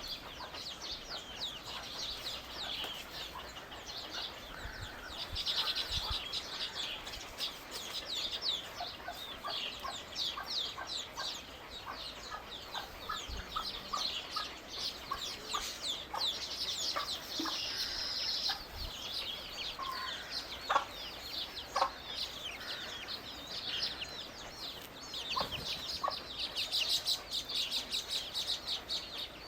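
Small birds chirping continuously, a dense chatter of rapid, short, high notes, many of them falling in pitch.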